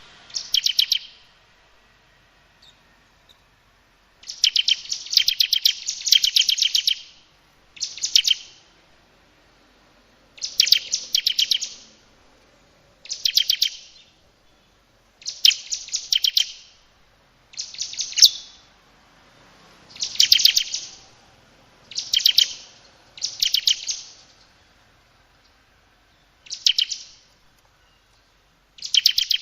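A bird giving harsh, rapid-fire rattling calls: about a dozen separate bursts of fast repeated notes, each lasting from under a second to a few seconds, with short pauses between them.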